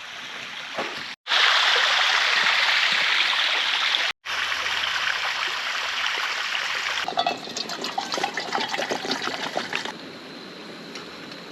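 Creek water running and trickling, heard in several short cuts. It is loudest in the middle and quieter near the end.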